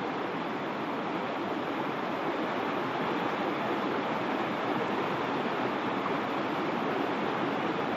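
Waterfall: falling water crashing in a steady, unbroken rush.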